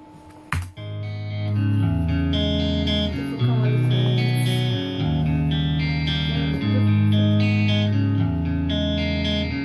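Instrumental intro of a rock ballad: electric guitar with effects playing sustained chords that change every second or so, after a short click about half a second in.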